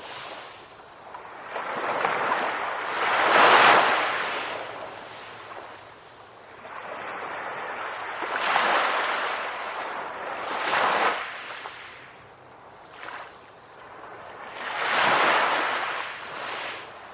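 Ocean surf rolling in to shore, each wave swelling into a rush of water and washing back. Three surges break, the loudest about three and a half seconds in, the others around nine to eleven seconds and near fifteen seconds.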